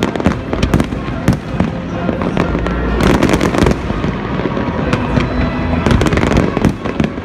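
Fireworks display: a rapid, irregular series of bangs and crackles from bursting shells and low-launched effects, thickest about three seconds in and again around six seconds.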